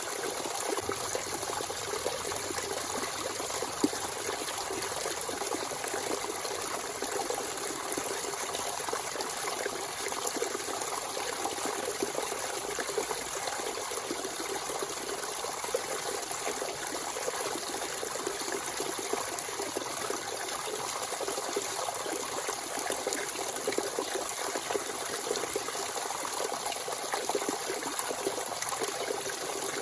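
Natural spring water running and splashing in a steady trickle, with a single faint click about four seconds in.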